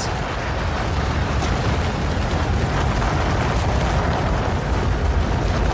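Avalanche sound effect: a steady, deep rumble of sliding snow with no break.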